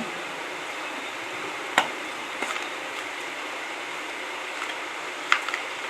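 A few sharp clicks and taps from small plastic parts of a wireless mini microphone kit being handled during unboxing, two of them louder, over a steady background hiss.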